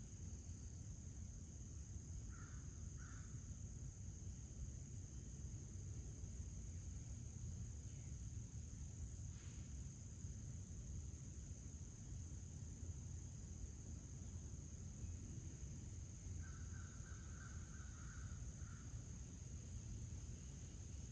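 Crickets trilling steadily and faintly, over a low outdoor rumble. A bird gives two short harsh calls a couple of seconds in and a longer call near the end.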